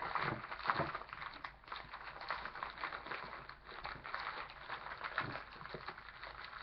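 Plastic candy wrapper crinkling and rustling as it is handled, with a few soft knocks.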